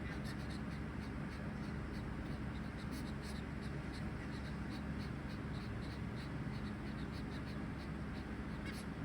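Zebra finches: quick, irregular high ticks and peeps, several a second, over a steady low hum.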